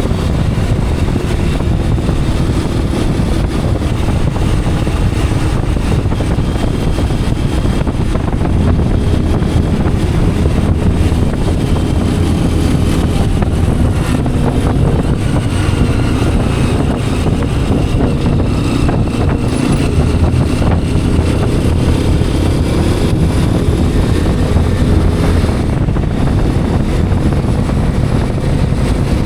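Hero Xpulse 210 motorcycle's single-cylinder engine running steadily while riding along.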